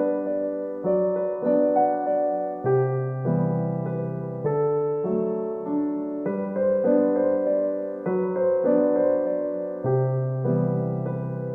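Background piano music: a slow, gentle piece of struck chords that ring and fade, a new chord about every second.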